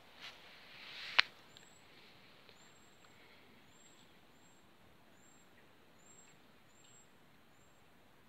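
A rustle swells and ends in a sharp click about a second in, as the handheld camera brushes through meadow plants. After that, faint, short, high chirps of a small bird repeat about once or twice a second over a quiet outdoor background.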